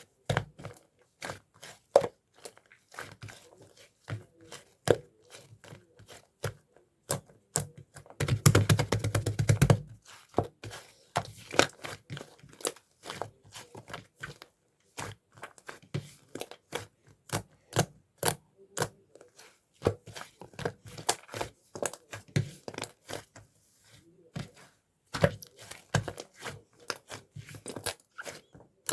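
Lavender slime being squished and pressed by hand, giving sharp sticky clicks and pops. About eight and a half seconds in, it breaks into a dense run of crackling for a second or so.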